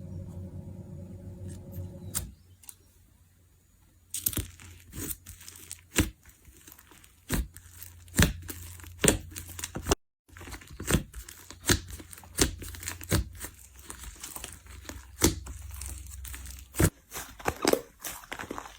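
Slime being squeezed and poked by hand, making irregular sticky pops, clicks and crackles. The pops start a few seconds in after a quiet stretch and break off briefly about halfway.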